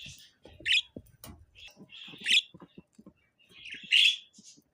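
Budgerigar chirping: three loud, sharp chirps about a second and a half apart, with softer chatter and small clicks in between.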